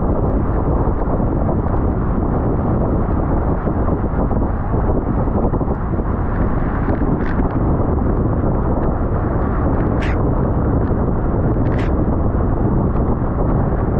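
Steady wind buffeting the microphone of a camera carried on a moving bicycle, a dense low rumble, with a few brief sharp ticks.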